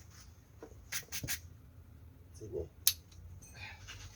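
A few short, sharp knocks and clicks: three close together about a second in, and one sharp click near the three-second mark.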